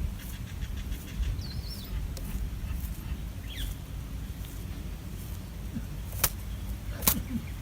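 Outdoor wildlife-footage sound: a steady low rumble of wind or water, two short high chirps a couple of seconds apart, and two sharp clicks near the end.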